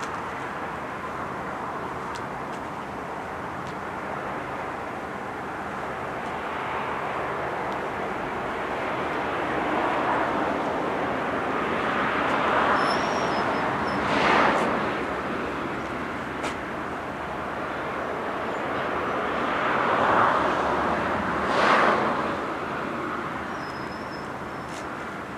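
Road traffic passing: a steady run of vehicle noise with two louder pass-bys, one about 14 seconds in and one about 22 seconds in.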